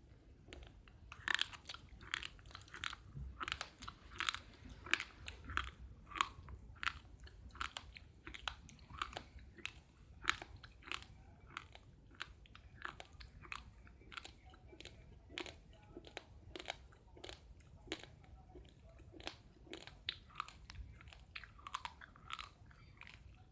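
Raw, uncooked rice grains being chewed, a steady run of sharp crunches about two to three a second.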